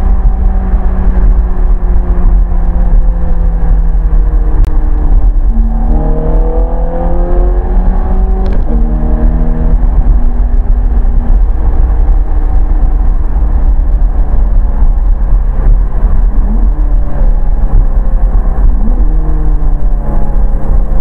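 Ferrari V8 engine heard from inside the cabin, over heavy low road rumble. The engine note sinks slowly at first, then climbs as the car accelerates from about six seconds in, with a sudden drop in pitch at an upshift near nine seconds, and rises again near the end.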